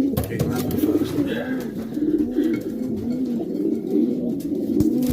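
Racing pigeons cooing in the loft: several birds' rounded coos overlap and repeat about every half second, with a few short knocks among them.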